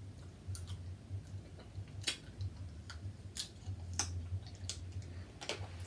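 Close-miked eating of seafood: about a dozen sharp, wet clicks and smacks at irregular intervals, with a low steady hum underneath.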